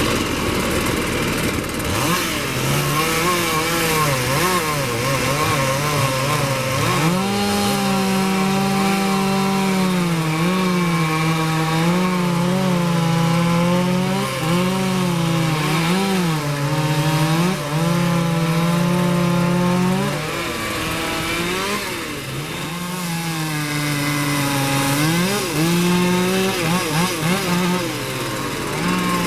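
Two-stroke chainsaw running at high revs while cutting, its engine pitch repeatedly sagging and recovering as the chain loads in the wood. The engine eases off about two-thirds of the way through, then comes back up.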